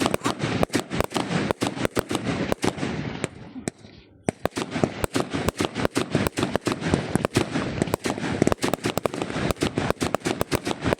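Fireworks going off in a rapid barrage of sharp cracks, several a second, over a continuous crackling hiss. The cracks let up briefly about four seconds in, then start again just as thick.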